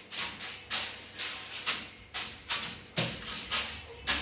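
A broom brushed and beaten against ceiling fan blades to knock the dust off: a dry swishing stroke about twice a second.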